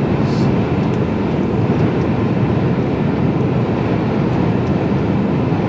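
Steady drone of a Mercedes-Benz Actros lorry cruising at road speed, heard inside the cab: engine and road noise with no change in pitch.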